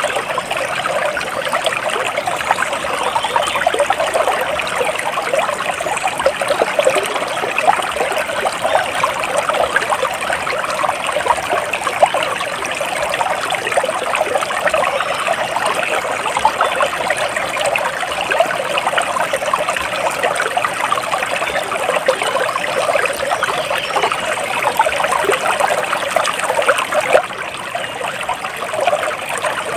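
Stream water trickling and babbling steadily, a continuous bright splashing with no let-up.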